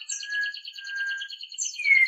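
White-rumped shama (murai batu) singing: a few clear, level whistled notes, a short high note near the start and a quick downward-sliding note near the end. Under them runs a fast, steady pulsing trill.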